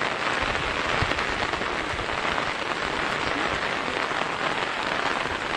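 Steady heavy rain falling, an even, continuous hiss of downpour.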